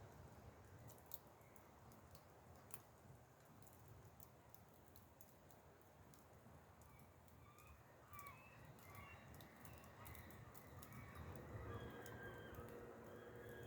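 Faint crackling of a wood campfire, with small sharp pops, and birds chirping in the background from about halfway through.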